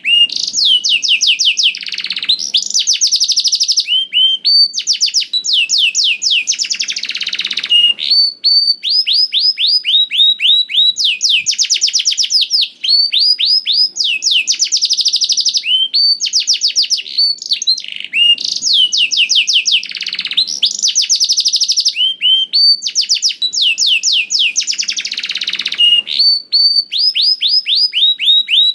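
Male domestic canary singing continuously: long rapid trills of repeated sweeping notes, phrase after phrase, with short buzzy rolls in between. This is the hard-singing 'gacor' style used as a tutor recording for young canaries.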